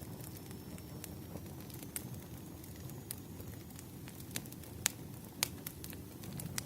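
Campfire burning: a steady low rumble with scattered sharp crackles and pops, the loudest a few seconds in.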